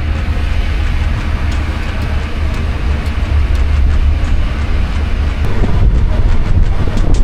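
Steady low rumble and rushing noise of a cruise boat underway, its engines and hull running continuously.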